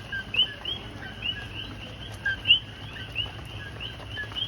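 A chorus of coqui frogs calling: many overlapping short two-note calls, each a lower note followed by a higher, rising one, repeated several times a second.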